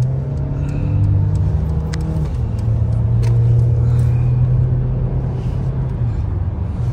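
Mercedes-AMG car's engine accelerating, heard from inside the cabin: a strong low drone that drops in pitch about two seconds in as it shifts up a gear, then pulls on steadily.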